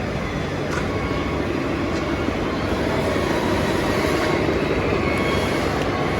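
Radio-controlled model trucks driving, a steady mechanical rumble and whir that grows slightly louder about halfway through, with a few faint clicks.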